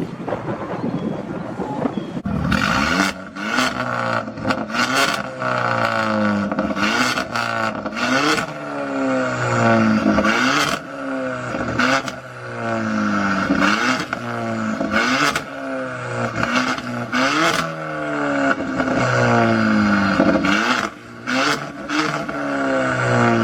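A modified car's engine revved hard over and over, its pitch rising and falling every second or two, with sharp exhaust pops and crackles. A steady high squeal sits over it from a couple of seconds in.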